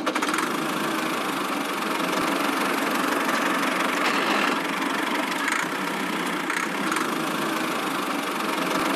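Small motor of a home-built miniature construction machine running steadily, an even mechanical whir without low rumble.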